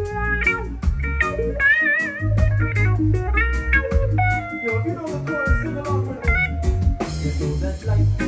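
Live band playing an instrumental passage: an electric guitar solo with bent, wavering notes over bass guitar and drums. A cymbal crash comes in about seven seconds in.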